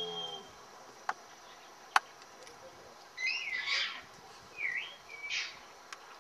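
Small birds calling in several bursts of whistled chirps and slurred, up-and-down notes through the second half. Earlier come two sharp clicks about a second apart, the second the loudest sound.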